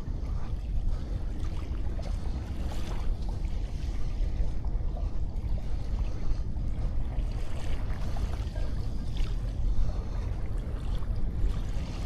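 Sea waves washing onto a sandy beach, an even, unbroken wash under a steady low rumble.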